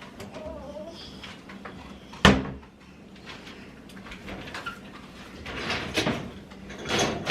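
Kitchen clean-up clatter: scattered clicks and knocks, with one loud bang about two seconds in.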